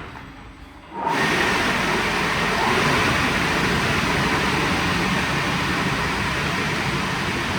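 WashTec SoftCare² Takt automatic car wash machinery running with a low rumble, then about a second in a loud, steady rushing noise starts abruptly and holds.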